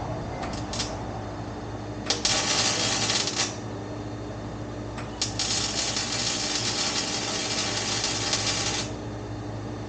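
MIG welder laying short beads on exhaust pipe: a crackling hiss that starts with a sharp click each time the trigger is pulled. There are two quick tacks near the start, a burst of about a second and a half around two seconds in, and a longer bead of about four seconds from about five seconds in.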